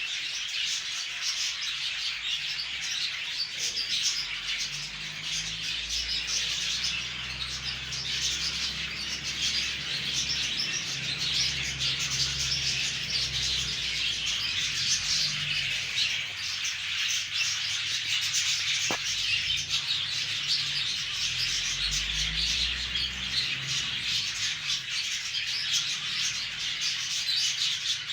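A flock of conure parrots chirping and chattering together, a dense unbroken chatter of many birds at once.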